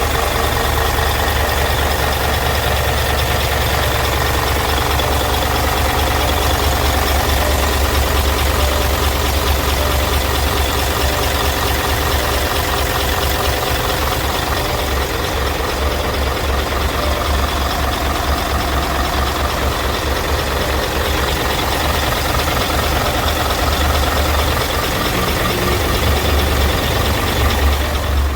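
Isuzu dump truck's 10PE1 V10 diesel engine idling steadily, a deep even rumble.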